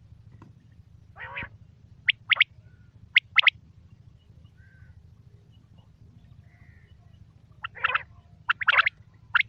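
Quail calling: short, sharp, high notes in quick pairs and runs, with a pause of about four seconds in the middle before a faster run near the end. A low steady hum lies beneath.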